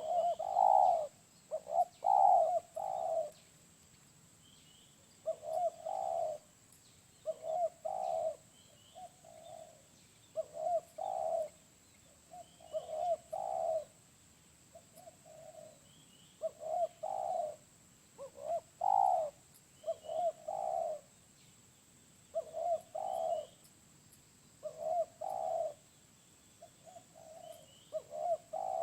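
Spotted dove (tekukur) cooing repeatedly, in phrases of two or three low coos that come about every two seconds.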